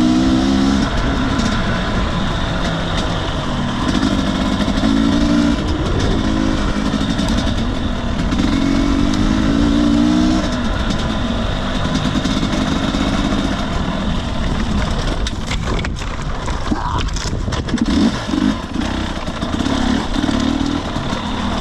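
2021 Husqvarna TE250i's 250cc two-stroke single-cylinder engine revving up and dropping back again and again as the throttle is worked on a trail ride, with a few knocks about three-quarters of the way through.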